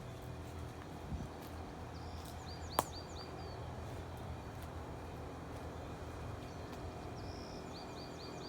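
A small bird sings twice, each time a short run of about four quick, high chirps. Under it is a steady low hum, and there is one sharp click in the middle.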